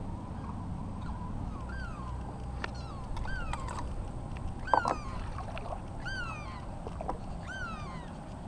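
A bird calling: a short mewing note that rises and falls, repeated about every second and a half. A single sharp knock comes about halfway through.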